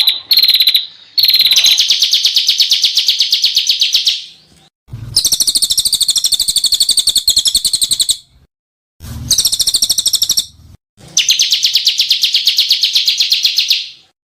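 Songbird giving loud, harsh rapid-fire trills of the kind used as 'kasar' masteran calls for training cage birds, in about four bursts of one to three seconds with short silent breaks between.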